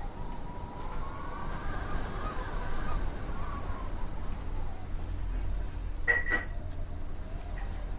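Wind howling, a thin whistling tone that rises and falls slowly over a low rumble. A brief metallic clink, like a utensil on a pot, about six seconds in.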